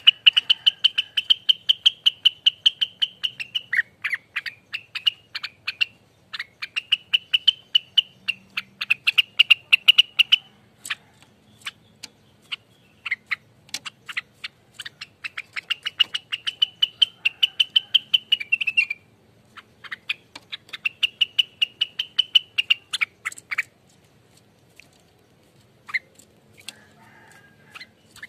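Cucak rengganis, a leafbird, singing its rapid chattering 'ropelan' song. Each phrase is a fast run of many short notes, lasting a few seconds, followed by a brief pause. Near the end the song breaks into scattered single notes.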